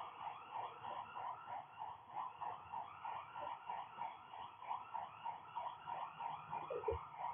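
Wildlife calling steadily in rapid, evenly repeated pulses, about four a second, several callers overlapping; a single soft thump sounds near the end.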